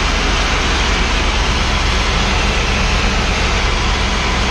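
Steady hiss of live steam from a mobile steam unit's hose being blown into a fuel tank to clean it out, over the constant low drone of the unit running.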